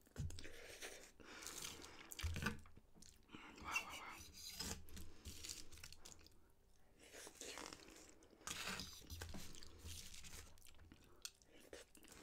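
Chewing and eating noodles close to the microphone: irregular wet mouth noises and small crunches as forkfuls of noodles are taken in and chewed.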